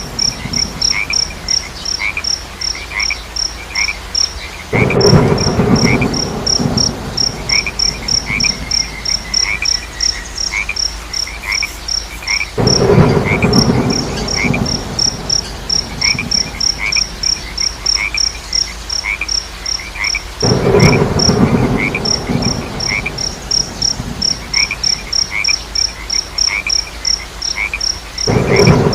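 Night chorus of crickets and frogs: a steady high cricket chirp about four times a second over lower chirping calls. About every eight seconds a loud croaking burst lasts a second or two.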